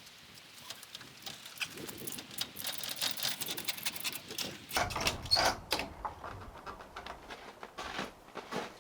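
Knocks, scrapes and rustling of a ladder being handled and climbed. The sounds build through the middle, with the loudest knocks about five seconds in.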